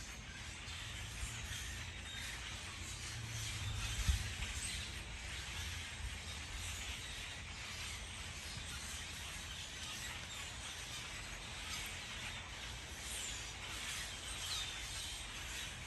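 Outdoor ambience: a steady hiss with a low rumble of wind on the microphone, a single thump about four seconds in, and a few faint, high bird chirps.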